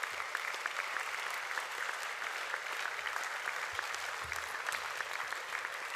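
An audience applauding in a hall, a steady patter of many hands clapping.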